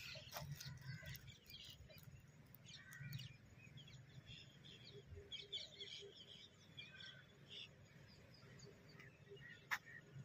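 Faint, scattered bird chirps over a low background rumble, with a single sharp click near the end.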